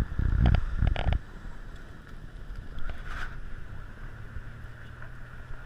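Blizzard wind buffeting the microphone in heavy gusts during the first second or so, then settling to a steadier rush.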